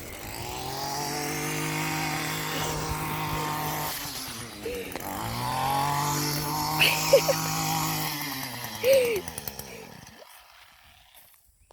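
Two-stroke Weed Eater string trimmer engine revving, twice rising in pitch and loudness and falling back, then dying away near the end.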